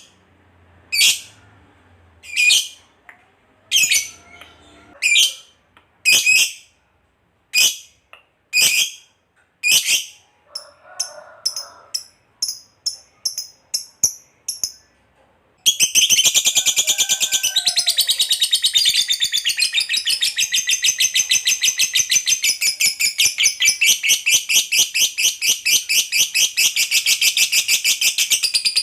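A lovebird gives single sharp, high calls about once a second. They turn into quicker, shorter chirps, and about 16 s in it breaks into a long, continuous, very rapid chattering trill, the prized "ngekek panjang" long chatter.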